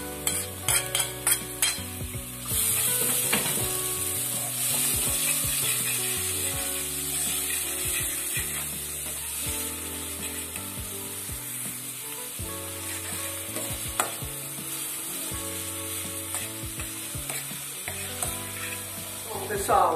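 Chopped onion and garlic frying in hot oil in a pot, a steady sizzle. A spoon clicks and scrapes against the pot, most busily in the first couple of seconds.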